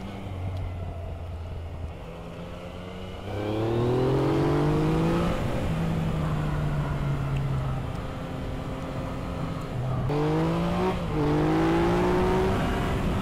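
Yamaha XSR 900's 847 cc inline three-cylinder engine under way at part throttle, then about three seconds in it pulls hard and rises in pitch and loudness. It eases off through the middle, then accelerates again near the end, with a brief dip in pitch before it climbs once more.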